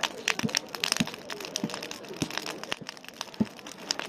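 Wood bonfire crackling, with many irregular sharp pops and snaps. Faint crowd voices murmur behind it.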